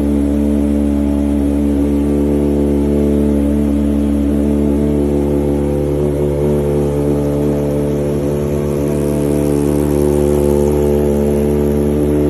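Kawasaki ZX-25R's 249 cc inline-four engine running at a steady, constant speed, its pitch holding level with no revving.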